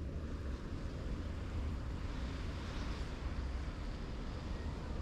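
Snowstorm wind buffeting the microphone: a steady low rumble with a hiss of blowing wind above it.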